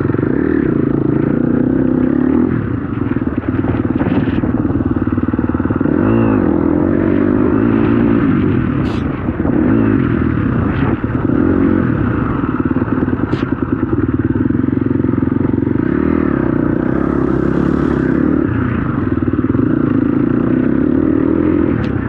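Dirt bike engine running continuously under riding load, its pitch rising and falling as the throttle is worked. A few sharp knocks come from the bike going over rough ground.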